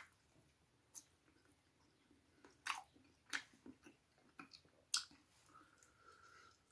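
A person chewing close to the microphone: soft, wet mouth clicks and smacks at irregular intervals, with a faint thin steady tone near the end.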